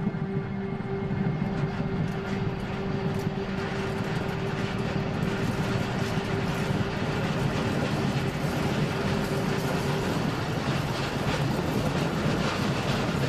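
Electric train running along the rails, with steady wheel-on-rail running noise and a steady low hum that stops about ten seconds in.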